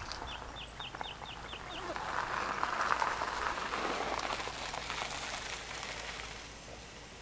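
Wild birds calling at dusk: a quick run of about seven short, falling high notes, then a louder swell of dense chattering for a few seconds that fades out.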